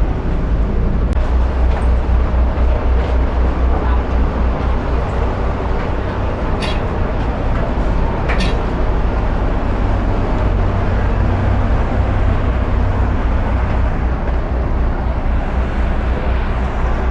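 A vehicle's engine runs steadily with a deep rumble throughout. Two brief sharp clicks come near the middle.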